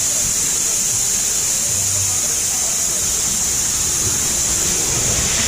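Steady rushing hiss of flowing water, as from a water slide's run-out or a waterfall, with a strong high-pitched hiss and no breaks.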